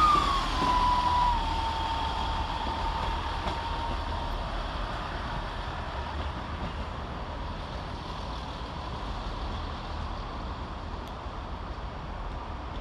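Class 158 diesel multiple unit pulling away. A whining tone falls in pitch over the first second or so, then holds steady and fades out, over a low diesel rumble that slowly dies away as the train leaves.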